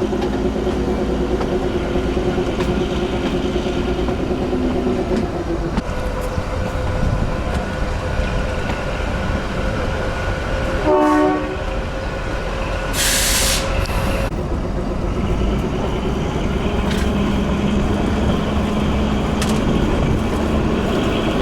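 Kalka–Shimla narrow-gauge train running slowly into a station with a steady rumble of wheels on rails. There is a held two-note tone for the first five seconds. About halfway through comes a short horn toot, then a sharp hiss of air lasting about a second.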